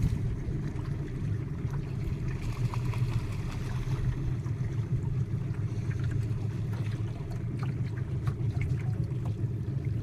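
Motorboat engine running steadily with a low hum, with light water noise.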